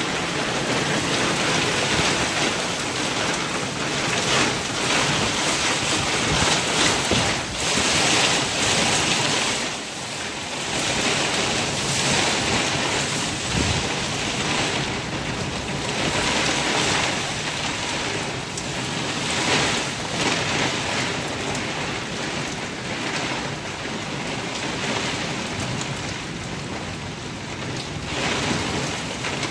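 Heavy rain pouring onto a terrace and the surrounding roofs, swelling and easing every few seconds.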